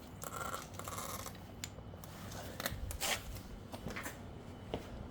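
Handling noises of mower hardware: a short scraping rub in the first second, then scattered light clicks and knocks of metal parts.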